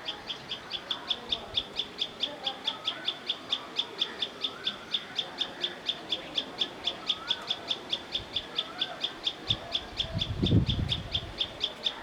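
A short, high chirp repeated steadily about five times a second, with softer warbling bird calls behind it. A brief low rumble comes about ten seconds in.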